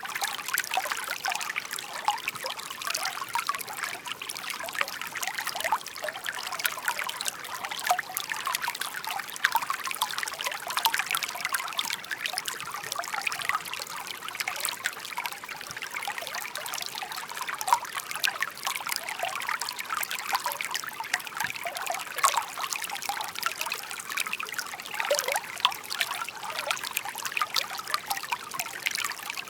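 Shallow brook murmuring: water trickling and babbling steadily, a constant rush dotted with small splashes.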